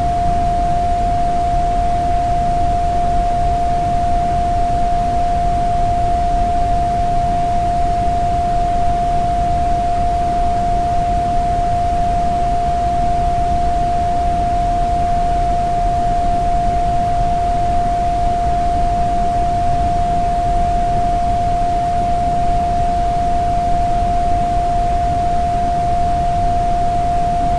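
A continuous electronic beep held at one unchanging pitch over a steady background hiss, cutting off abruptly at the end.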